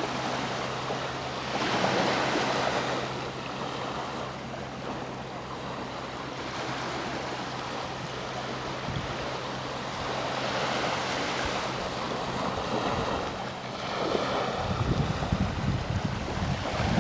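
Sea waves washing onto the shore, swelling in surges several seconds apart, with wind buffeting the microphone near the end.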